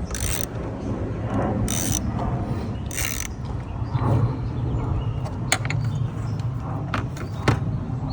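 Hand tools backing out screws on a car's air filter housing: three short rasping bursts about a second apart, then a few sharp clicks, over a steady low hum.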